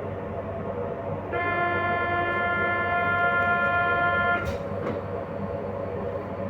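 RER B commuter train running, with steady rumbling noise. About a second in, a steady pitched tone sounds for about three seconds and cuts off, followed by a short knock.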